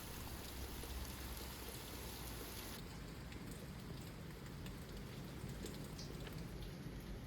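Steady rain falling, with scattered individual drops ticking through it. About three seconds in, the higher part of the hiss drops away suddenly, as from a change in the recording.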